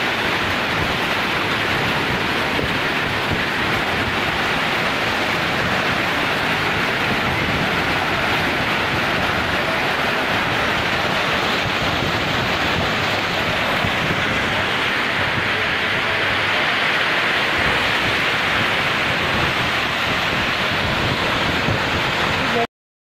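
Heavy rain pouring down in strong wind, a steady dense hiss of rain on the road and awnings. It cuts off suddenly near the end.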